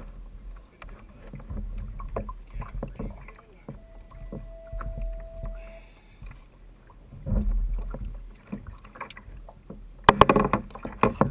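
Water sloshing and knocking against a fishing kayak's hull, with scattered knocks and bumps, a brief steady tone in the middle, and a loud burst of knocks and clatter near the end.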